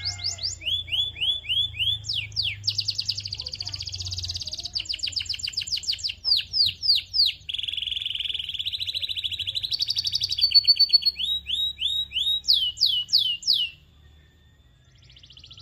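Canary singing: a long song made of rapid rolling trills alternating with runs of quick downward-sweeping whistled notes, stopping abruptly a couple of seconds before the end.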